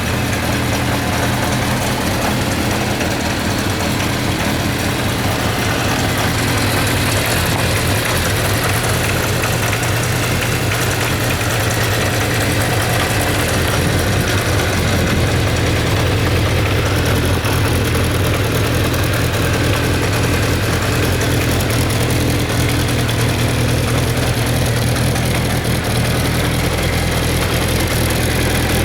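Kawasaki Zephyr 750 (ZR750-C2) air-cooled inline-four engine idling steadily.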